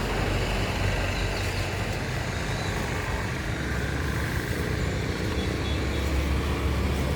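Road traffic: a steady hum of passing vehicles, with a deep engine rumble that grows louder about four seconds in.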